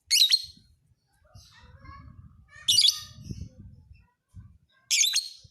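Lovebird singing in three loud, shrill chirping bursts about two seconds apart, with a faint low rumble between them.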